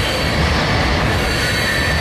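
Freight train of coal cars rolling across a steel girder bridge: a steady rumble of wheels on rail, with a thin, high-pitched wheel squeal held over it.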